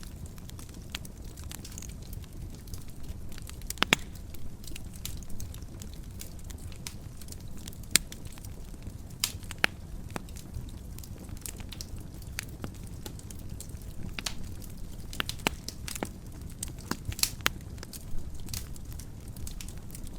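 Wood fire burning in a fireplace: a steady low rumble of the flames with irregular sharp crackles and pops from the logs, a few louder pops standing out.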